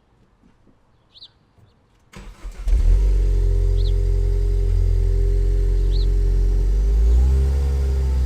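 A 2016 Ford Focus ST's turbocharged 2.0-litre four-cylinder, breathing through a COBB intake, downpipe and cat-back exhaust, is cranked about two seconds in, catches with a brief flare and settles into a steady idle.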